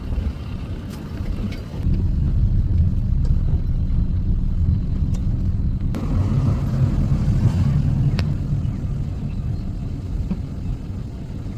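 A motor vehicle driving: a steady low road and engine rumble that gets louder about two seconds in, with a few faint clicks.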